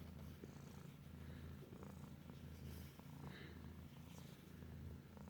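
Cat purring, a faint steady low rumble, with a few small clicks.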